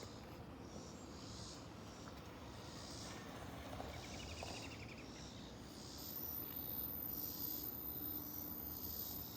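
Insects calling outdoors, a faint, hissy chirp repeating roughly once or twice a second.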